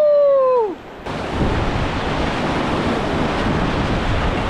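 A whooping shout that slides down in pitch and ends within the first second, then a steady rush of whitewater rapids around the raft.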